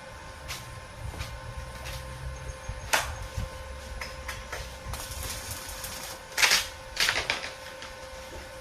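Irregular clicks and knocks of metalwork on a welded frame, with two louder short harsh bursts about six and a half and seven seconds in, over a steady faint hum.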